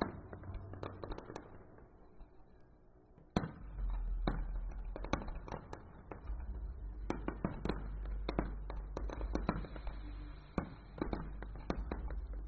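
Distant aerial firework shells bursting in a barrage: many sharp bangs at uneven intervals, sparse at first and coming thick and fast from about three seconds in, over a low rumble.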